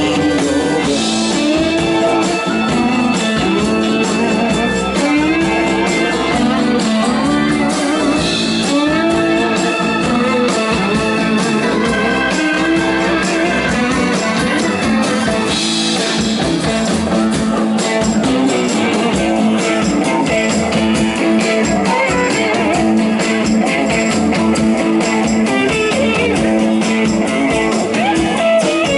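Live blues-rock band playing an instrumental passage, the guitar to the fore over a steady band backing.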